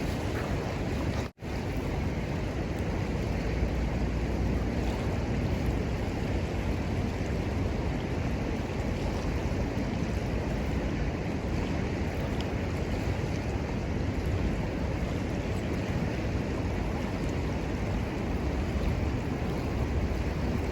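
Steady rushing of river water with a low wind rumble on the microphone; the sound drops out for an instant about a second in.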